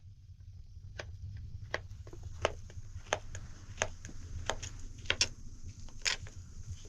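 A series of sharp knocks, roughly one every three-quarters of a second and two in quick succession a little after five seconds in, over a steady low rumble.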